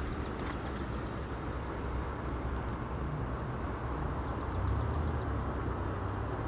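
Steady outdoor rumble, swelling slightly about four seconds in, with a small bird's quick high trill of about eight notes, heard twice: right at the start and again about four seconds in.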